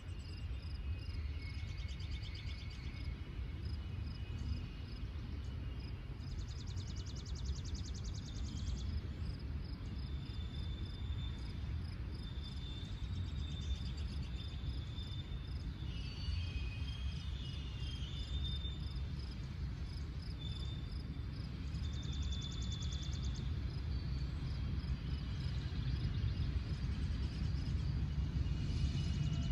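Birds calling and trilling over a steady low rumble, which grows louder near the end.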